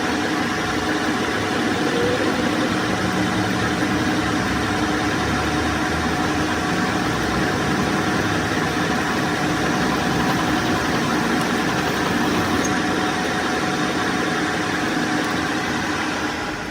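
Metal lathe running steadily, a constant machine hum with several steady tones over a broad hiss; it cuts off abruptly at the end.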